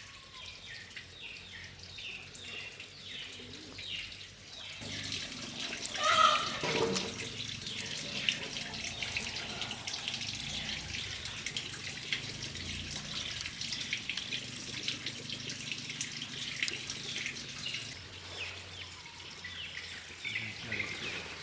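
Water running steadily, starting abruptly about five seconds in and cutting off near the end, with small birds chirping before and after. About six seconds in, one loud sound falls in pitch.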